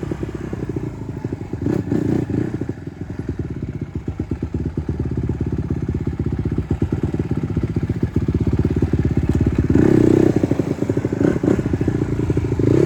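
Dirt bike engine running at idle, revved up briefly about two seconds in and again around ten seconds in.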